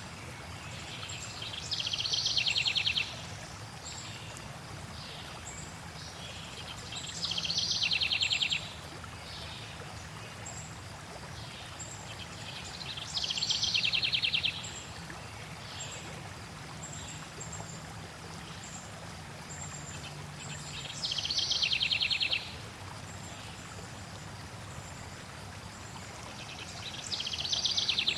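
Songbird singing over steadily flowing water: one bird repeats the same loud, trilling phrase about every six seconds, five times, with faint high chirps in between.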